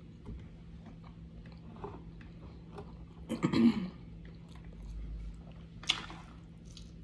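Close-miked chewing and biting of food, with small wet mouth clicks throughout and one louder noisy burst about halfway through.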